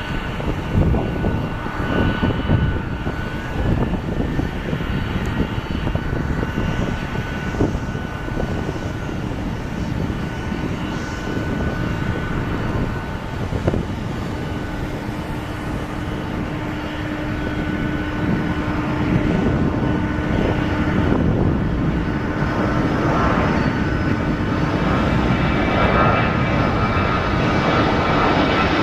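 Boeing 737-800's two CFM56-7B turbofan engines at takeoff thrust: a steady jet roar with thin whining tones over it, growing gradually louder in the second half.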